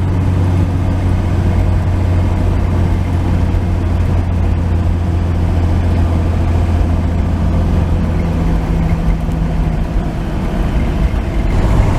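1949 Chevrolet 3100 pickup's engine running steadily under load as it pulls a hill. The low drone eases a little about eight or nine seconds in.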